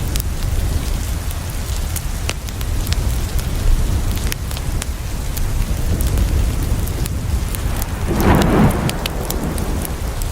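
Steady rain falling, with a deep low rumble under it and scattered sharp crackles of a wood fire. About eight seconds in, a short rumble of thunder rises and fades within a second or so.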